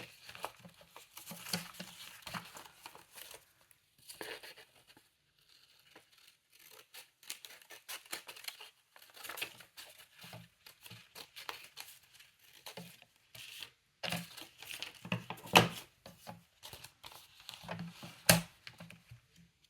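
Paper being trimmed with scissors and handled, irregular snips and paper rustling and tearing as the edges are roughed up, with two louder sharp snaps near the end.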